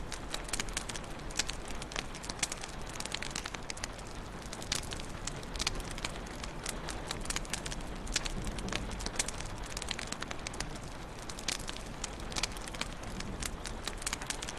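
Wood fire crackling in a fireplace: a steady hiss dotted with frequent, irregular sharp snaps and pops.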